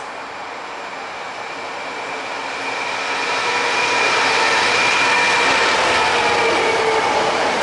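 Class 66 diesel locomotive hauling car-carrier wagons approaching and passing through at speed. The engine and running noise grow louder over the first few seconds, then hold steady as the locomotive and wagons go by.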